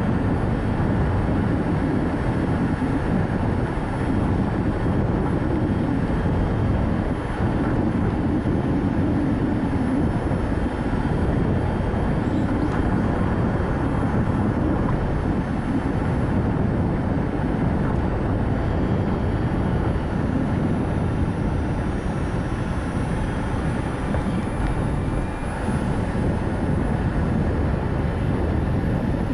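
Steady road noise from a Nissan Note e-POWER driving along: a rumble of tyres on the road with wind noise.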